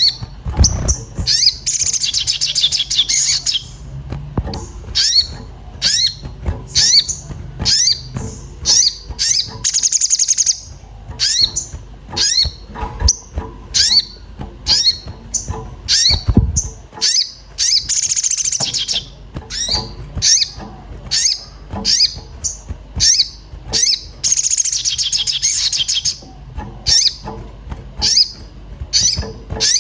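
Sogon (crested jay) in agitated call, giving a rapid series of sharp, downward-sliding 'cuit cuit' chirps, several a second, broken every few seconds by a dense, fast trill.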